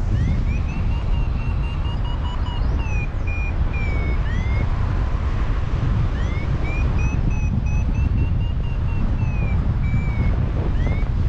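Paragliding variometer beeping in quick short pulses, its pitch rising and falling with the rate of climb, which signals the glider climbing in lift. The beeps pause briefly about halfway through, then resume. Heavy wind buffets the microphone.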